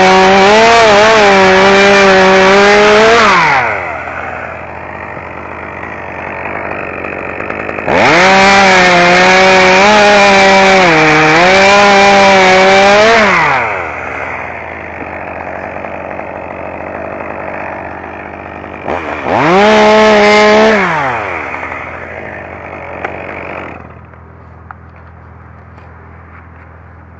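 Two-stroke chainsaw cutting a dead, dry tree: three bursts at full throttle, the engine note sagging under load in each cut. Between them the saw drops back to idle, and about three-quarters of the way through it goes quiet.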